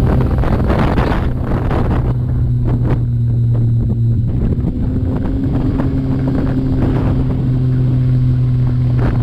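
Yamaha YXZ1000R side-by-side's three-cylinder engine running at steady revs, with scattered knocks and rattles over the rough track.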